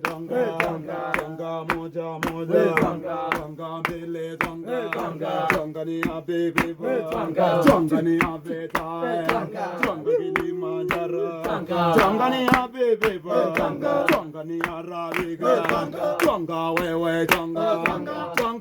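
A group singing and chanting a Swahili work song, over the steady thuds of a pestle pounding dried coffee beans in a mortar to shell them, about three strikes a second.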